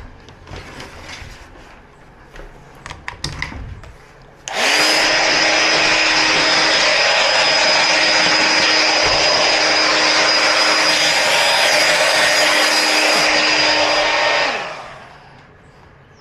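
Small electric blower or air-blowing tool running steadily for about ten seconds: a rush of air with a steady low hum and a high whine. It switches on about four seconds in and winds down near the end, after a few light handling clicks.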